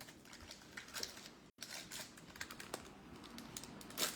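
Trading cards being handled and flipped through by hand, with faint, irregular clicks and rustles as the cards slide against each other. The sound cuts out for a moment about a second and a half in.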